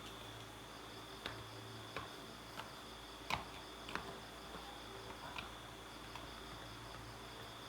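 About eight light, sharp clicks and taps at irregular intervals, the loudest a little past the middle, over a steady faint low hum and a thin high whine.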